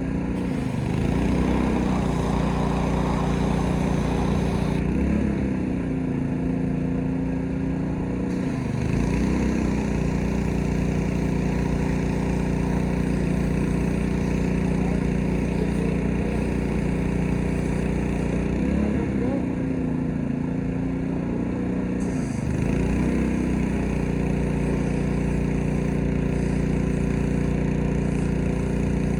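Gasoline pressure washer engine running steadily, its pitch dipping briefly and recovering several times.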